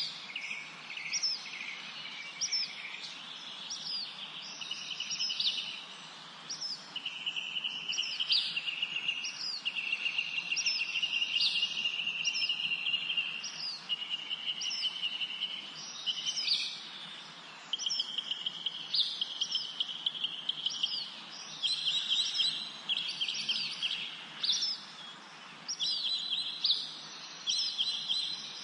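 Several songbirds singing in a forest: short high notes repeat about once a second over longer fast trills that each last one to three seconds, with a faint steady hiss of background noise.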